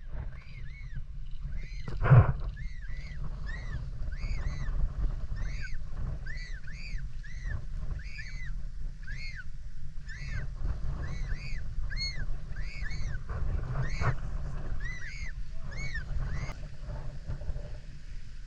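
A seabird calling over and over, short rising-then-falling notes about two a second that stop near the end, over steady low wind rumble. A loud thump about two seconds in.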